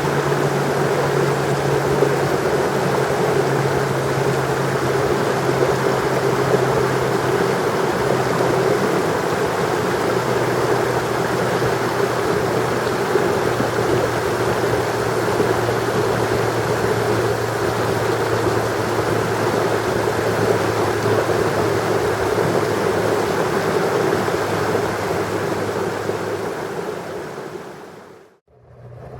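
A vehicle engine running steadily under a heavy wash of road and wind noise, fading away near the end.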